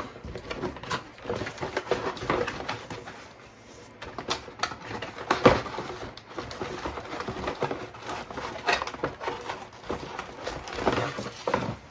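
Hands unpacking a small fireworks canister shell from its packaging: scattered rustling, scraping and tapping, with one louder knock about five and a half seconds in.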